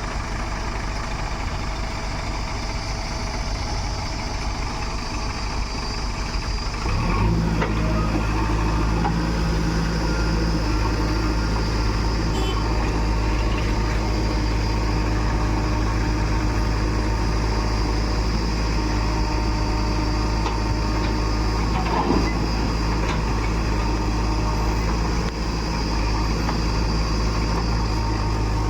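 Heavy machinery's diesel engine running steadily. About seven seconds in, the engine note changes to a steadier, slightly louder hum.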